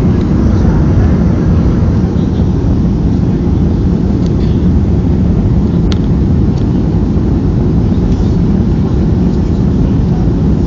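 Boeing 737-300 cabin noise: a steady low rumble of the CFM56 jet engines and airflow heard from inside the cabin, with a single sharp click about six seconds in.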